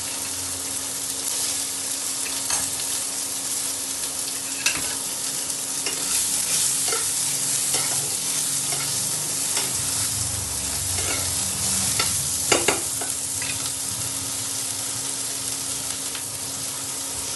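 Chopped onion, green chilli and garlic frying in hot oil in a pan, a steady sizzle, with a spatula stirring and clicking against the pan now and then; two sharper knocks come about five seconds in and again after twelve seconds.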